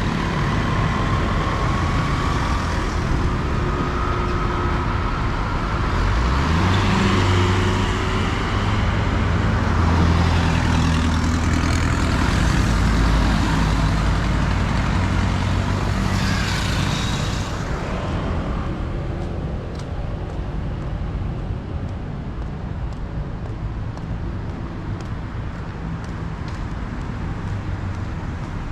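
Street traffic: motor vehicles running past close by, with one engine speeding up about six seconds in and a heavy rumble that fades after about eighteen seconds, leaving a quieter background hum of traffic.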